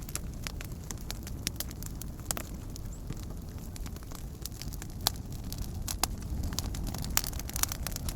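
Campfire burning with irregular sharp crackles and pops over a low steady rumble of flame, a few louder pops about five and seven seconds in.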